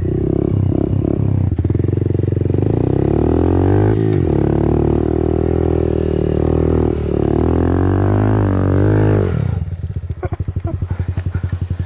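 Dirt bike engine revving hard under load on a steep hill climb in soft dirt, its pitch rising and dipping as it works. About nine and a half seconds in it drops to a low, pulsing idle as the climb fails, which the rider blames on the dirt being too soft.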